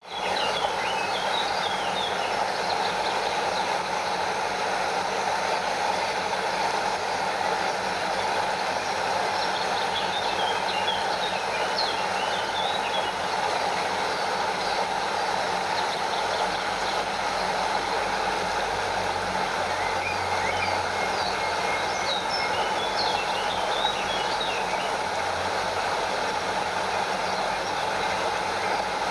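Stream water flowing and cascading over a small waterfall: a steady, even rush. Three spells of short high chirping calls come over it, one at the start, one around the middle and one about two-thirds through.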